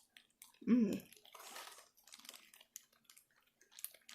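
A brief wordless voiced sound, like a short hum, about a second in, then faint scattered clicks and rustles of someone eating.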